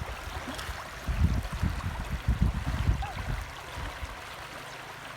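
River water flowing steadily, with uneven low rumbling for the first three seconds or so.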